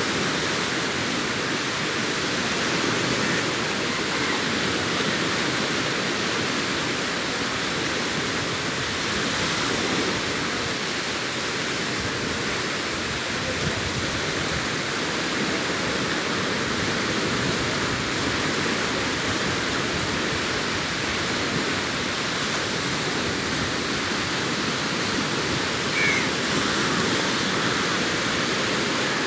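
Sea waves washing on the shore, heard as a steady, continuous rush with only gentle swells in loudness.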